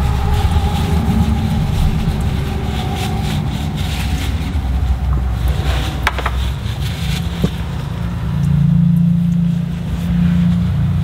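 A motor vehicle engine running steadily, its pitch rising and holding higher for a couple of seconds near the end, with a single sharp click midway.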